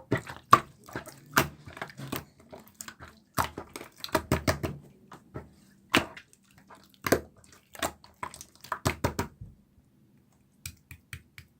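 Slime being squished and pressed by hand, giving irregular wet clicks and pops, some in quick clusters. The clicks stop briefly about ten seconds in, then start again more quickly and evenly near the end.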